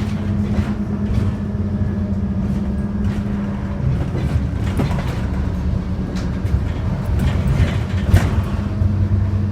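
Scania OmniCity diesel bus engine running with a steady low drone. The engine note changes about four seconds in and strengthens again near the end, with scattered rattles and clicks.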